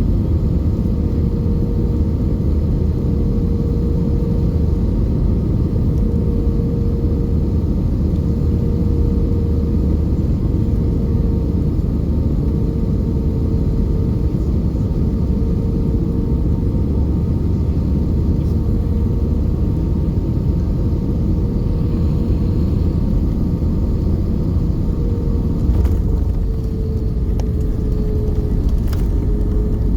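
Cabin noise inside an Airbus A320 airliner: a steady low rumble of the engines and airflow with a constant whine that dips slightly in pitch near the end, and a couple of faint clicks late on.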